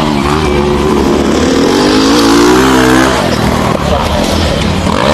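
Motocross dirt bike engines revving, their pitch rising and falling as the riders work the throttle. The revving is strongest for the first three seconds, then eases, and picks up again with a rising rev near the end.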